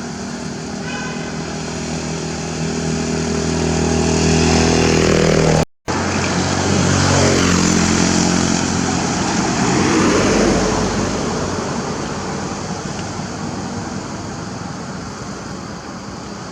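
A motor vehicle engine passing close by, its note rising and getting louder for about five seconds. After a brief dropout, another swell peaks and fades away with a falling pitch.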